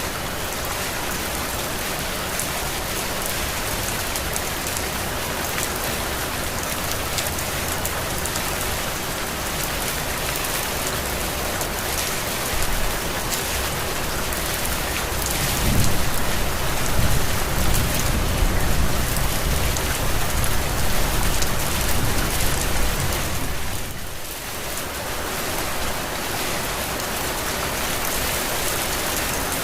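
Heavy rain falling steadily. About halfway through, a low rumble rises under it and lasts several seconds.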